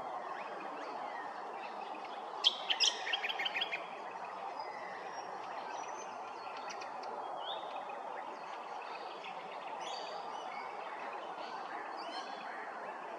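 Birds chirping and calling, with a short burst of rapid chattering notes about two and a half seconds in, the loudest sound here, and scattered fainter chirps and whistles after it, over steady background noise.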